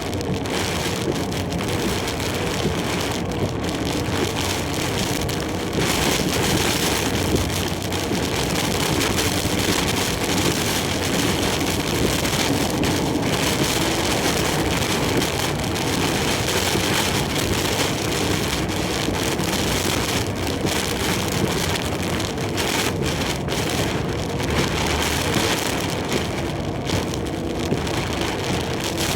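Heavy typhoon rain beating on a large truck as it drives, over a steady rumble of engine and road noise. The noise grows a little louder about six seconds in.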